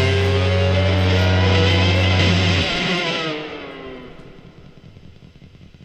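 A rock band's final chord held on distorted electric guitar and bass guitar. The bass cuts off sharply about two and a half seconds in, and the guitar chord rings on and fades away.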